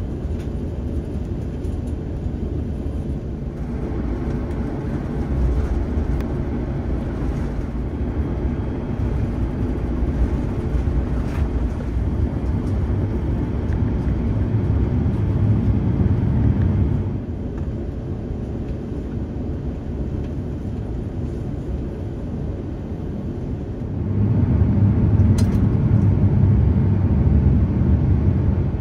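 Cabin noise of an Airbus A350-900 taxiing, a steady low rumble from its Rolls-Royce Trent XWB engines at taxi power. It gets louder and drops back abruptly a few times.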